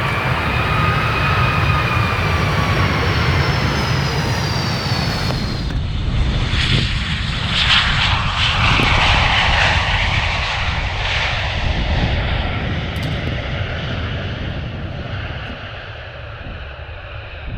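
Boeing 757 jet engines: a loud whine with tones that glide slightly. About six seconds in the sound changes abruptly to a broad rushing engine roar that swells, then fades toward the end.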